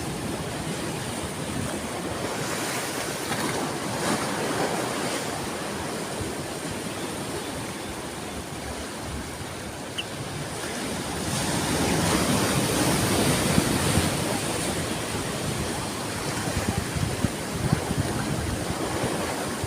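Ocean waves washing onto a shore: a steady rush of surf that swells and ebbs, with one bigger wave building about 11 seconds in and fading a few seconds later.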